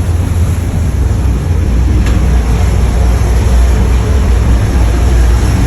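Fishing boat's engine running steadily: a loud, deep, unbroken drone with a wash of noise over it.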